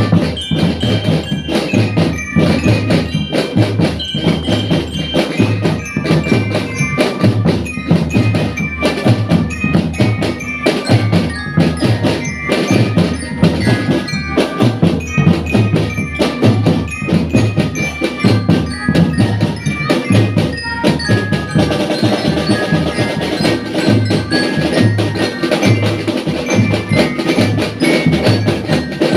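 A marching drum band playing: steady beats on bass and snare drums under a melody on bell-lyras (marching glockenspiels). About 21 seconds in, a fuller sustained accompaniment joins the drums and bells.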